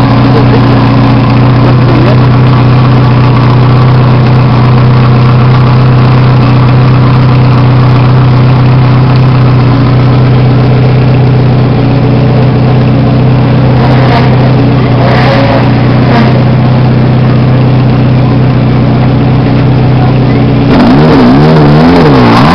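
Ferrari F40's twin-turbo V8 idling steadily, then revved in several quick blips of the throttle near the end.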